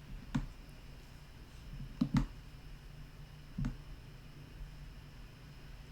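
Four sharp computer clicks from mouse or keys while text is copied and searched, including a quick pair about two seconds in, over a faint steady hum.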